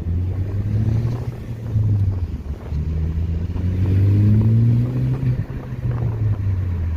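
2014 Ford Focus ST's 2.0-litre turbocharged four-cylinder through a new MBRP cat-back exhaust, driving under acceleration. The exhaust note climbs in pitch, drops at a gear change a little after five seconds in, then runs on steadier.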